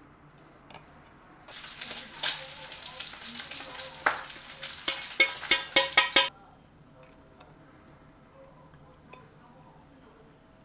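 Food frying in a pan: a dense crackling sizzle that starts about a second and a half in, with a run of about six loud sharp spattering pops near its end, then cuts off suddenly.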